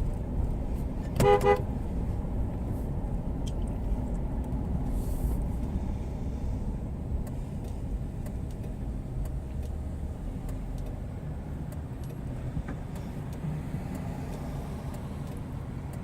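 Steady low rumble of a vehicle running, with one short horn toot about a second in.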